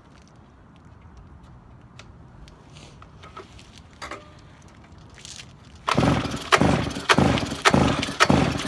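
Minibike's small engine being cranked with the pull-start, turning over in a run of loud, rough pulses about twice a second that begins about six seconds in, without catching. Before that, only faint clicks.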